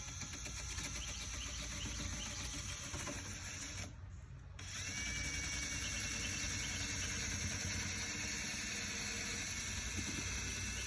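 Power sander running against a painted car hood, stripping off the old paint. It briefly drops out about four seconds in, then runs on with a steady high whine.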